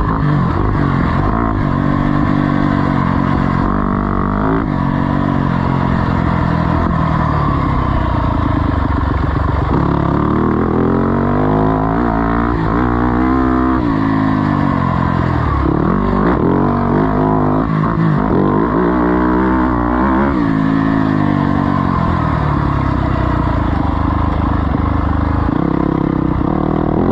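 Single-cylinder four-stroke off-road engine under hard riding, its pitch climbing and dropping again and again as the throttle is opened and closed through the track's jumps and turns.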